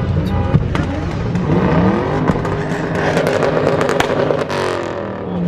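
Car engines revving hard, their pitch climbing several times, with a run of sharp crackles about three to four seconds in.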